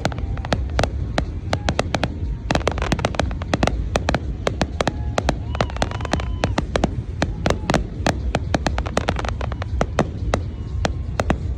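Fireworks display: a rapid, continuous barrage of sharp bangs and crackles, with short whistles gliding up and down in pitch among them, over a steady low rumble.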